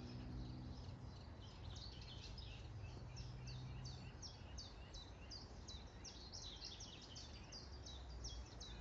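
A bird calling continuously in a fast run of short, high, downward-slurred notes, about three or four a second, faint against outdoor background noise. A low hum sits under it for the first few seconds.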